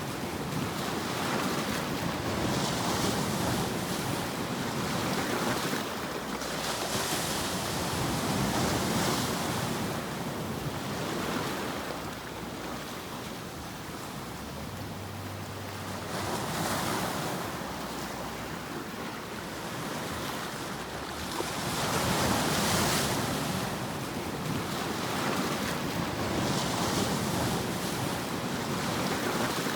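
Ocean surf: a continuous rush of noise that swells and ebbs as waves break every few seconds.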